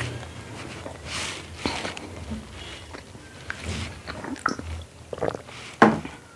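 Close-up chewing and wet mouth sounds of someone eating a meal of rice, dal and buffalo meat, with scattered small clicks and one sharp, louder click near the end.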